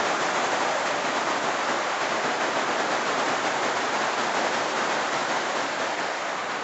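Cloudburst rain falling on the plastic film roof of a hoop-house greenhouse: a dense, steady hiss that eases slightly near the end.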